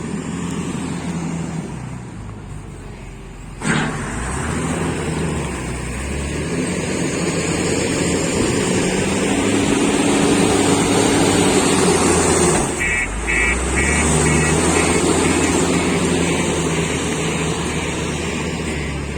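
Heavy diesel machinery running at coal loading, with a sharp bang about four seconds in and a rushing noise building up for several seconds. After a brief dip, a string of short, evenly spaced high beeps begins, like a reversing alarm.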